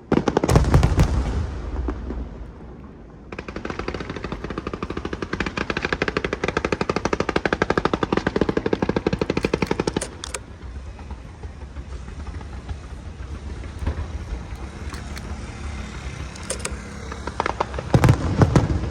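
Aerial fireworks going off: a few loud bursts about half a second in, then from about three seconds in a dense, very rapid run of crackling reports lasting about seven seconds, quieter crackling after that, and another cluster of loud bursts near the end.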